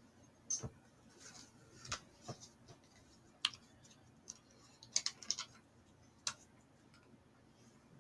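Scattered light clicks and taps at irregular intervals, with a quick run of them about five seconds in: small handling noises from something being moved about close to the microphone.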